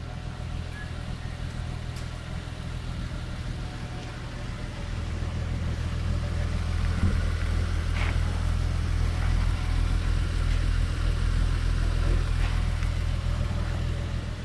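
1996 Nissan Maxima SE's 3.0-litre V6 idling steadily, a high-mileage engine (about 240,000 miles) that runs well.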